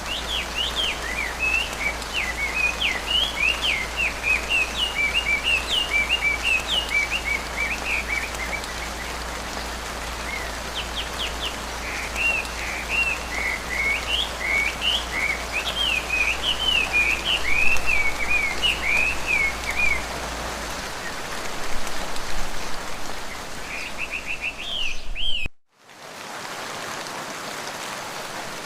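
Steady rain falling in a forest, with a bird calling in rapid runs of short, high chirps over it. About 25 seconds in, the sound cuts out abruptly for a moment, then the rain resumes without the bird.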